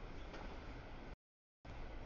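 Double-stack container freight train rolling past, a steady low rumble and rail noise. The sound cuts out completely for about half a second just past the middle, then returns.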